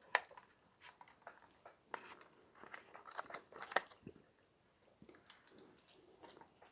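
Irregular small clicks and crackles close to the microphone, the sharpest just after the start and about four seconds in, typical of die-cast toy cars and their plastic being handled.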